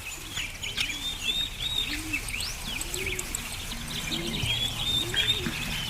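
Birds chirping and twittering in quick overlapping calls, with low cooing calls repeating about once a second underneath.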